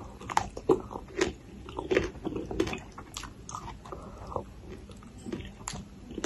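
Close-miked chewing of spicy papaya salad with raw vegetables: a run of crisp, wet crunches in the first three seconds, then softer, sparser chewing.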